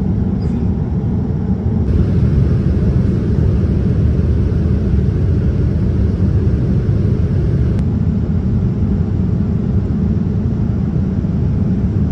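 Steady cabin roar of a Boeing 787-10 in flight, a low rumble of engines and rushing air heard inside the cabin. It gets a little louder and brighter about two seconds in, with a single sharp click near eight seconds.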